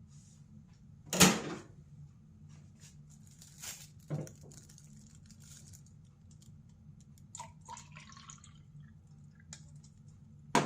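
Engine additive being mixed into water in a small container: a sharp knock about a second in, two softer knocks around four seconds, and brief dripping and liquid sounds later on, over a steady low hum.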